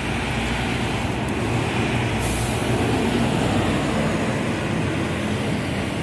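Tour buses at a bus terminal: large bus engines running with a steady low rumble, with a short high hiss about two seconds in.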